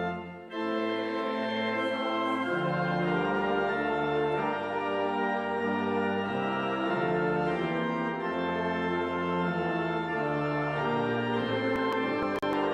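Church organ playing slow, sustained chords that change every second or two, with a brief break just after the start.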